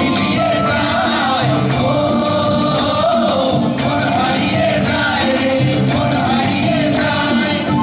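Live folk music: singing over instrumental accompaniment, loud and continuous.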